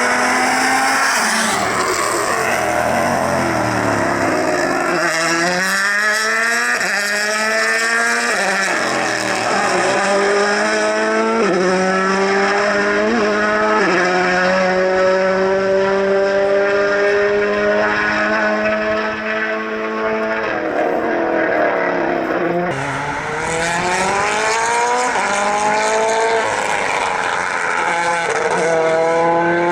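Rally car engine under hard acceleration on a special stage, revving up through the gears with quick upshifts and holding high revs. It then lifts off and accelerates again.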